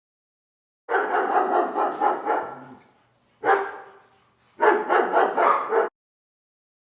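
A dog barking in three quick runs of rapid barks, with short pauses between them.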